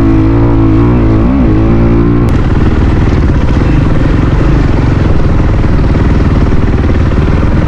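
Dirt bike engine running under throttle, its pitch rising and falling with the revs. About two seconds in it changes to a rougher, lower rumble.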